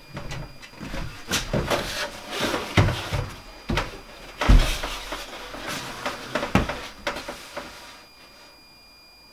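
Irregular wooden knocks, bumps and scrapes of timber wall boards being handled and positioned, with a sharp thump about halfway through; the knocking stops near the end.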